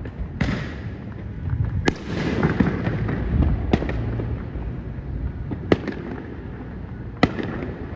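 Fireworks going off at a distance: separate sharp bangs every second or two, over a steady crackling rumble from many more far-off fireworks.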